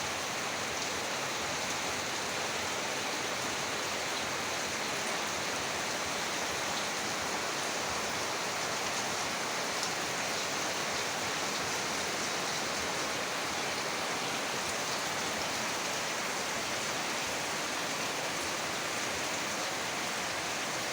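Heavy rain pouring steadily: an even, unbroken hiss with no let-up.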